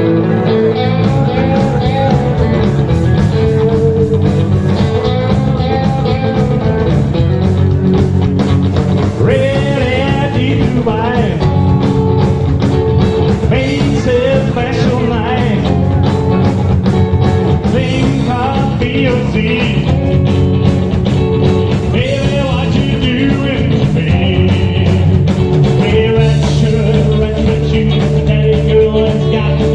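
Rock and roll band playing a song live, guitars and a steady drum beat, with a singer coming in about ten seconds in.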